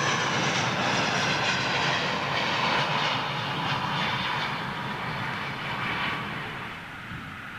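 Airbus A350-900 jet airliner passing close by, its Rolls-Royce Trent XWB turbofans giving a loud rushing roar laced with high whining tones. The sound fades away over the last couple of seconds.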